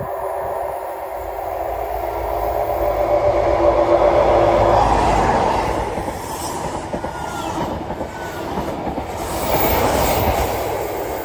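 Diesel passenger train passing close at speed. An engine drone of several steady tones builds to its loudest about four seconds in, then the coaches rush past with wheel clatter.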